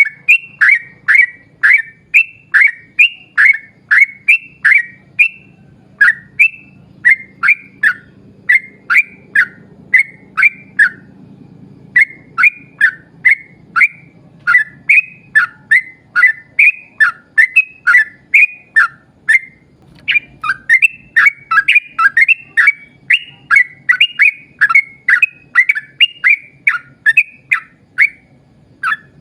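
Yellow-vented bulbul (trucukan) calling in a long rapid run of short, loud whistled notes, each dropping in pitch, about three to four a second, with brief breaks twice.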